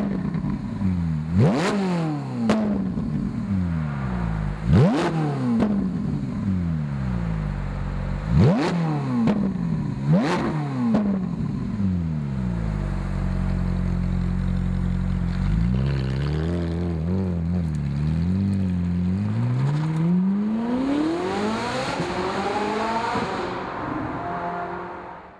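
Ferrari 458 Italia's 4.5-litre V8 through a Fabspeed exhaust, revved while standing still: five quick, sharp blips over the first eleven seconds, a few seconds of steady idle, some small wavering revs, then one long climb to high revs that falls back near the end.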